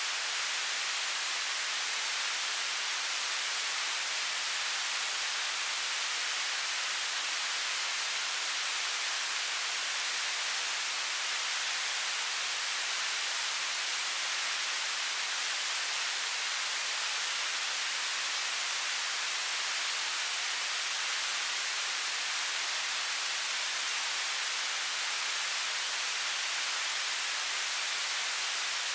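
Television static: a steady, even hiss of white noise, strongest in the high range and thin in the bass, without change.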